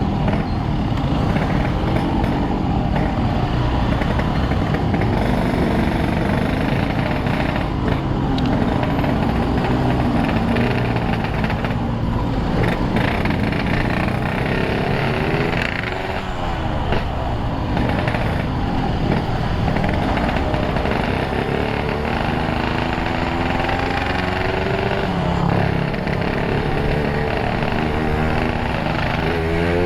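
Yamaha RX-King's single-cylinder two-stroke engine, running through an aftermarket Boban C33 exhaust, revving up and down several times with its pitch rising and falling.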